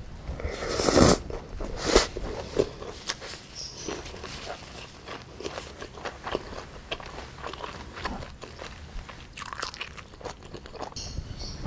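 A mouthful of bibimbap (rice, beef and vegetables such as bean sprouts, carrot and kimchi) being bitten and chewed close to the microphone. The loudest moment is the bite about a second in, followed by steady chewing with many small wet clicks and crunches.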